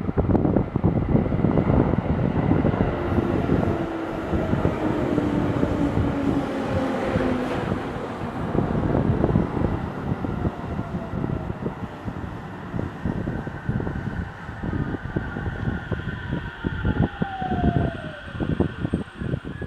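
An electric train running on the rails with a dense clatter of wheels over rail joints, while whining tones glide downward as it slows. The sound cuts off sharply at the end.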